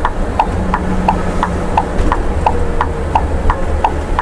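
Turn-signal indicator ticking about three times a second in the cab of a Scania, over the steady low drone of its diesel engine on the descent.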